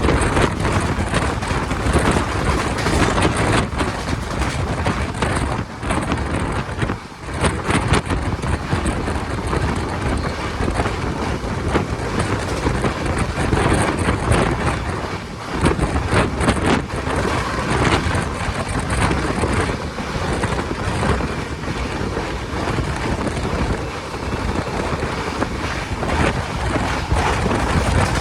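Tapti Ganga Express train running at speed: a loud, steady rush of wheel and rail noise with many short clacks, and wind buffeting the microphone.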